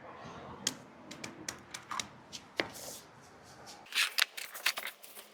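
Irregular clicks and gritty scrapes as dirt and debris are dug out of a drain, with a quick cluster of clicks about four seconds in.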